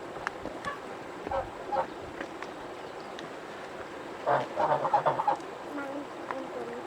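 Farm waterfowl calling: faint scattered knocks, then a short run of honking calls a little over four seconds in.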